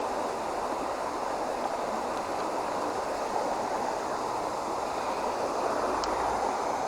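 Small creek running: a steady rush of flowing water, with a couple of faint clicks.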